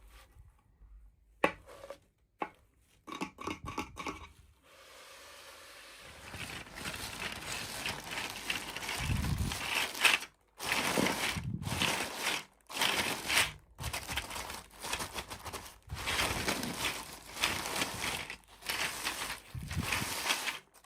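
Toy packaging being opened by hand: a few sharp clicks, then from about six seconds in, near-continuous crinkling and tearing of the wrapping with brief pauses.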